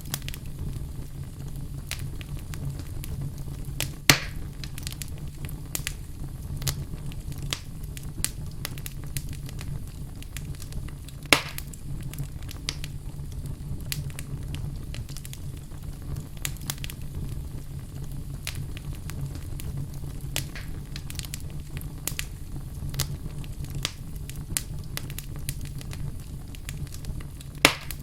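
Wood fire burning in a fireplace, crackling steadily with frequent small clicks over a low rumble. Three louder pops stand out: about four seconds in, about eleven seconds in, and near the end.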